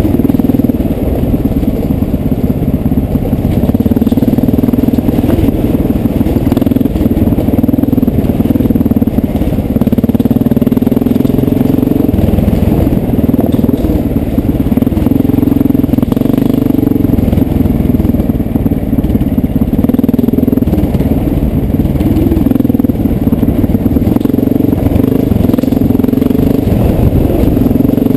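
1989 Honda XR600's single-cylinder four-stroke engine running loud and steady as the dirt bike is ridden along a forest trail. Its pitch wavers, dipping briefly now and then as the throttle is eased and opened again.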